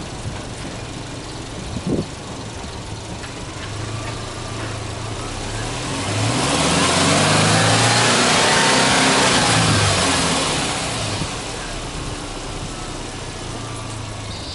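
Subaru Impreza WRX STI hatchback's turbocharged flat-four boxer engine idling, then revved up once with no load, held high for a few seconds in the middle and let fall back to idle.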